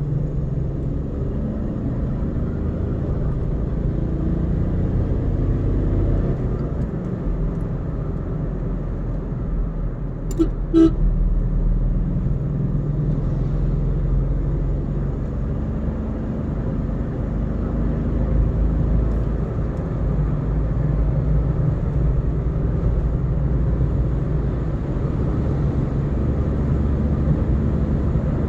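Car driving along a road: steady engine and tyre rumble, the engine pitch climbing over the first few seconds as it pulls away. About ten seconds in comes a brief double toot.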